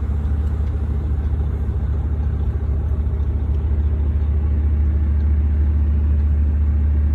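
2016 Volvo 780 semi-truck's diesel engine idling, heard as a steady low hum inside the cab.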